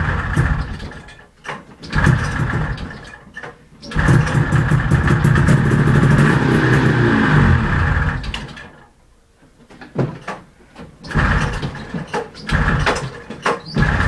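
1970s Arctic Cat Panther snowmobile's two-stroke engine on a stubborn cold start. A couple of short cranking bursts, then the engine catches and runs for about four seconds, sagging in pitch and dying. Several more short cranking bursts follow.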